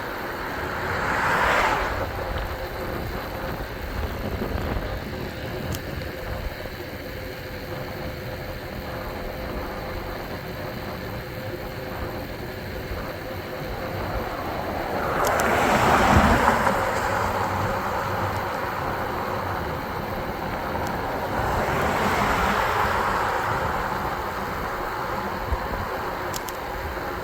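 Cars passing on the road. Each one is a swell of tyre and engine noise that rises and fades away: a short one about a second and a half in, the loudest around sixteen seconds, and another around twenty-two seconds. Underneath is a steady rushing background.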